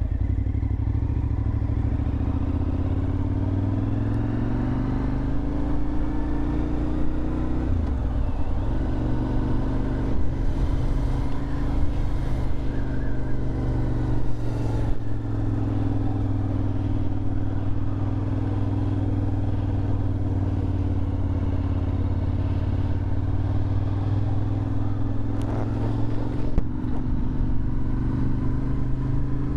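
Suzuki TL1000R's 996 cc V-twin running through a LeoVince aftermarket exhaust while being ridden. Its note rises and falls steadily, with short breaks about 8 and 15 seconds in.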